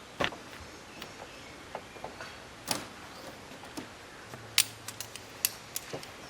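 A dozen or so irregular light clicks and knocks, sharpest a little past halfway, over a faint steady background hiss.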